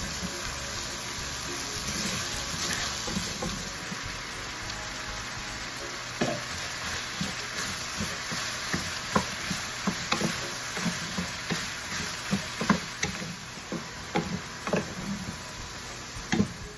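Sliced onions and mushrooms sizzling in a pan while a wooden spoon stirs them. The spoon knocks against the pan again and again, the knocks coming thicker from about six seconds in.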